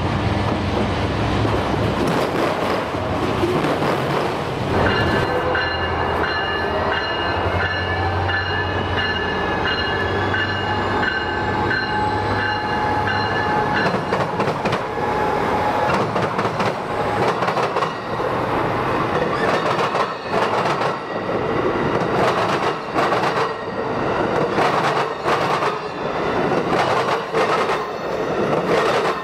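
Autorack freight cars rolling past with steady wheel and rail noise. About five seconds in it changes to an Amtrak SC44 Charger locomotive accelerating away, with a slowly rising whine and several steady high tones, then its passenger cars clattering over rail joints in a fast, irregular clickety-clack.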